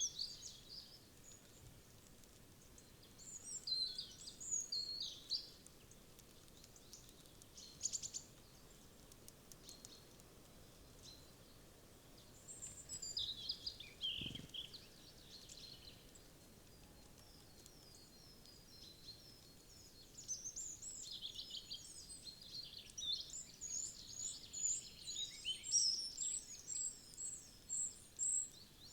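Small wild songbirds chirping and calling in several bouts, busiest in the last third, with a run of short, quickly repeated high notes near the end, over a faint steady woodland background.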